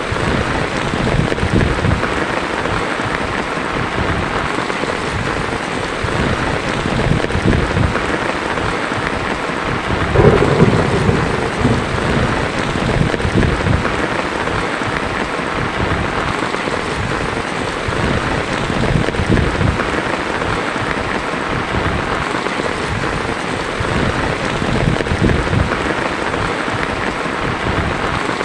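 Heavy rain falling steadily on a tin roof, with low rumbles of thunder; the loudest rumble swells about ten seconds in.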